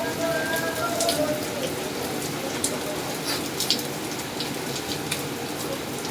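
Rain falling steadily, with a constant hiss of water and many small drop splashes and patters. A faint voice is heard in the first second.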